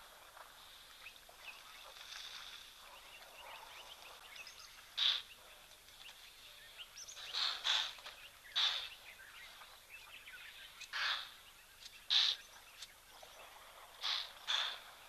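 Bird calling at intervals: short, sharp calls every second or few, some in quick pairs, over a faint steady background hiss.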